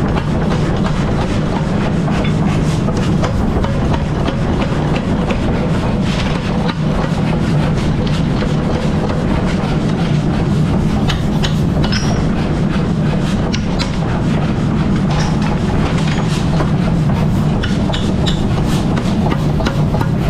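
A machine running steadily with a low hum, with scattered sharp clicks and knocks over it.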